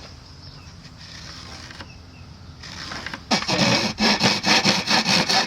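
Handsaw cutting through wood, starting a little over three seconds in with quick back-and-forth strokes, about three a second.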